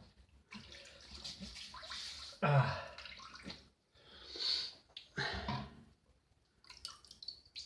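Water running and splashing, in several short spells with brief pauses between them.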